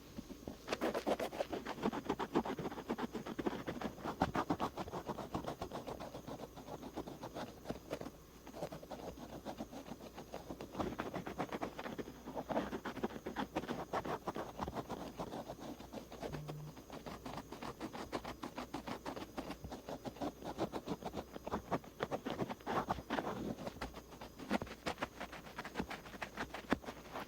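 A cotton swab scratching and rubbing over the outer ear of a binaural microphone in rapid, close strokes, swelling and easing in short waves.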